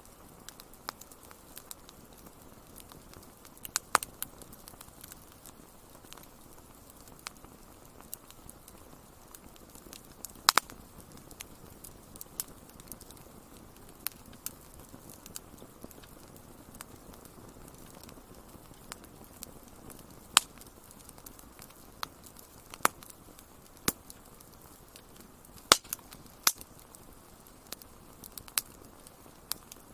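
Wood fire crackling in a fireplace: a soft, steady rush of flame with sharp, irregular pops and snaps. A few louder pops stand out, about 4, 10, 20 and 26 seconds in.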